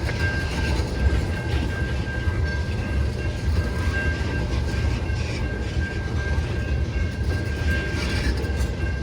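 CN freight train rolling past at close range: a steady rumble of railcar wheels on the rails, with a thin steady high-pitched whine over it.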